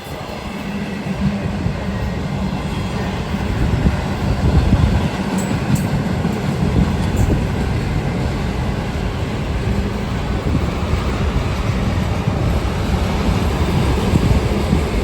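Freight train rolling past close by: a steady, loud rumble of the cars' wheels on the rails, with a faint clickety-clack.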